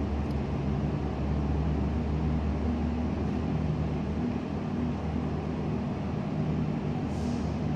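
A train at the station running with a steady low drone. There is a brief hiss near the end.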